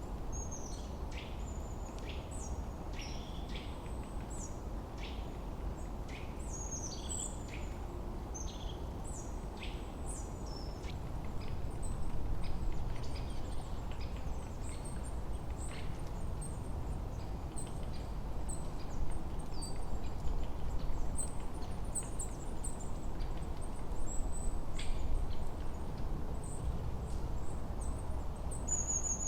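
Forest birds chirping in quick short high notes, busy at first and sparser later, over a steady low rush of wind that swells a little at times.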